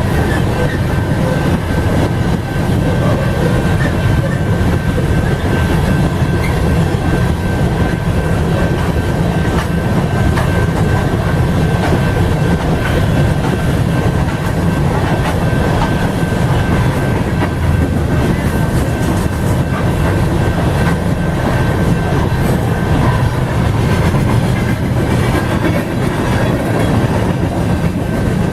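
Freight train cars rolling past at close range: a steady low rumble with the wheels clicking over rail joints, over a thin steady high-pitched tone.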